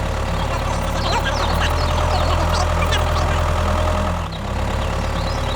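Tractor engine running steadily, with a brief dip about four seconds in and short high chirps over it.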